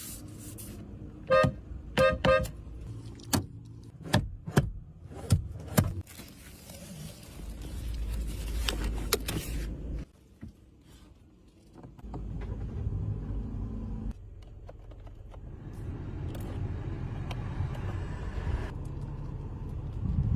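2021 Hyundai Elantra being operated: a run of sharp clicks with short electronic chime beeps in the first few seconds, then stretches of steady running noise, with a quieter gap about halfway through.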